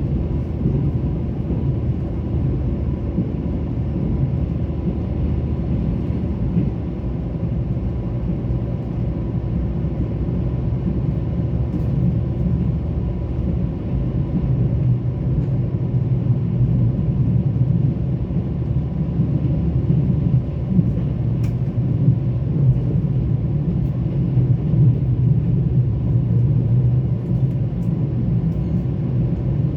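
Mugunghwa-ho passenger train running, heard from inside the carriage: a steady low rumble with a faint steady tone above it and a few light clicks. It grows a little louder over the second half.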